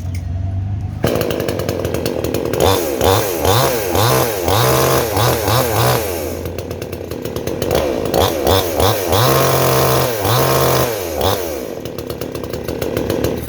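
Sumura CS6500L 54.6cc two-stroke chainsaw engine running. About a second in it is throttled up hard, then the revs swing up and down several times, and it eases back near the end.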